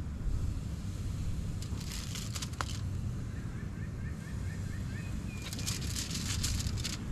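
Raw burger patties sizzling in two short crackling bursts as they are laid on a small portable charcoal grill, over a low rumble of wind on the microphone. Between the bursts a bird calls faintly in a quick series of chirps.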